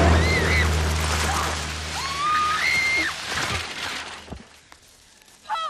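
Open vintage roadster's engine running with a low steady drone while high voices call out over it. The engine fades out about four seconds in, followed by a single thump and a short high cry near the end.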